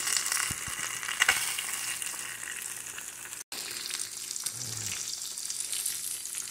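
Salmon fillets, potato slices and onion sizzling in oil in a nonstick frying pan: a steady hiss, with a couple of sharp clicks about a second in and a break of an instant about halfway.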